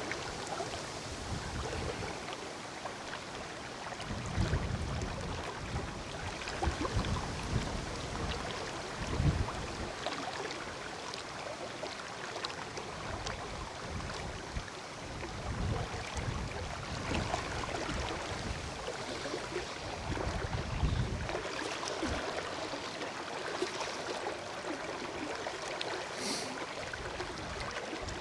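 River water running steadily, with gusts of strong wind buffeting the microphone every few seconds.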